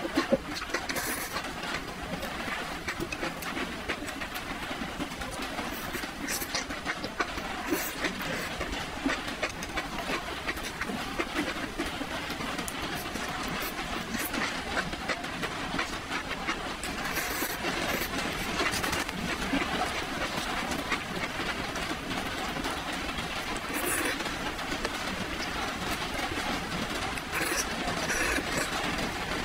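Close-miked chewing and slurping of spicy enoki mushrooms and wide starch noodles: a steady run of wet mouth smacks and small clicks.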